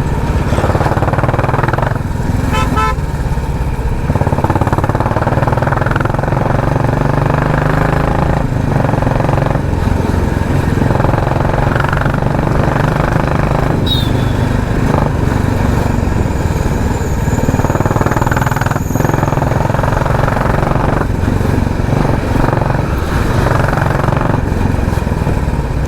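Royal Enfield Classic 350's single-cylinder engine running steadily on the move through its stock, unmodified exhaust, giving the deep, even beat its rider calls a 'helicopter' sound.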